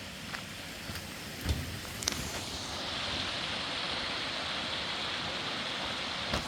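A steady rush of flowing stream water that swells about two and a half seconds in and holds, after a few light clicks and a dull thump in the first two seconds.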